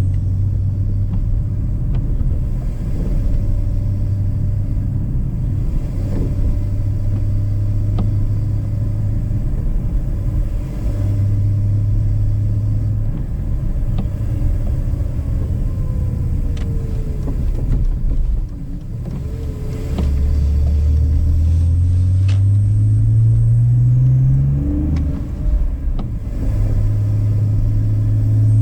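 BMW E46 inline-six engine breathing through a K&N aftermarket intake while driving: a steady cruising drone, then about two-thirds of the way in it pulls up through the revs, rising in pitch, drops back at a gear change and settles into a steady drone again.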